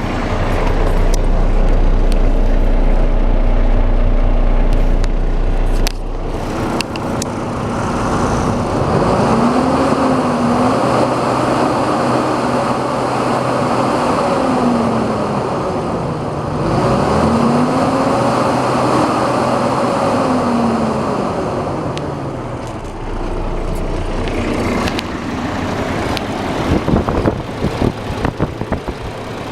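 Isuzu diesel engine running, revved up and let back down twice in the middle, each rev held a few seconds. A run of sharp knocks sounds near the end.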